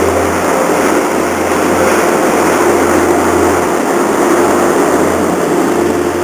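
A ship's engines running with a steady low hum under an even rushing noise.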